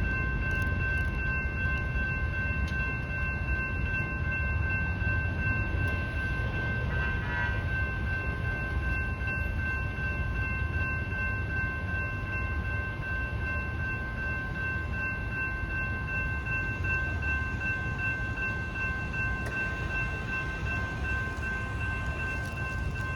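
Train rolling through a railroad crossing: a low, steady rumble. Over it, the crossing's warning bell rings steadily, a set of high tones that hold throughout while the gates are down.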